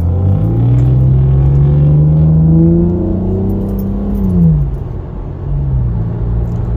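Car engine accelerating, heard from inside the cabin. Its pitch climbs steadily for about four seconds, drops away about four and a half seconds in as the driver shifts or lifts off, and picks up again near the end.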